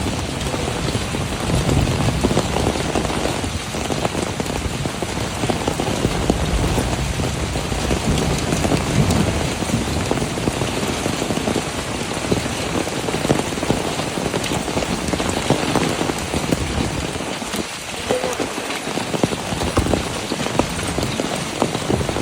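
Rain falling steadily and loudly, a continuous even hiss of drops on surfaces.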